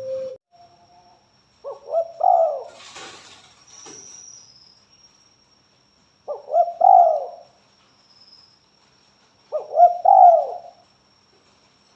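Spotted dove (tekukur) cooing: three short, similar coo phrases, a few seconds apart.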